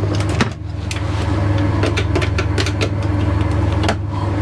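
A steady low engine-like hum throughout, with a run of small sharp clicks and knocks from handling the plastic parts of a caravan window blind and its roller.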